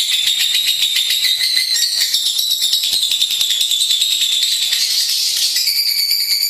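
Lovebird singing a long, unbroken, rapid chattering trill, high-pitched. The pitch steps up a little past five seconds in.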